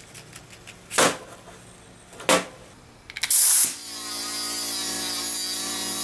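Two short whooshes, then a brief loud burst of hiss like a blast of air, then a small electric power tool starting up and running steadily at a constant whine.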